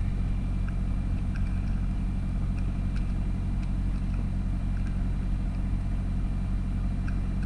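Truck engine running steadily at a low, even hum.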